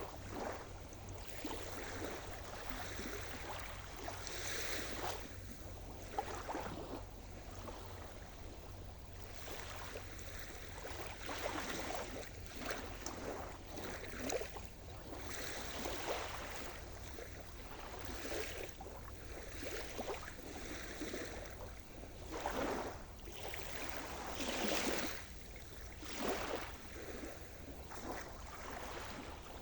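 Sea surf: small waves breaking and washing in, a splash every second or two over a steady low rumble of the sea.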